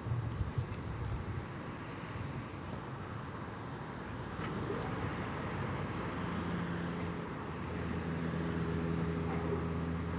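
Outdoor traffic noise, with a motor vehicle's engine hum setting in about six seconds in and growing slightly louder.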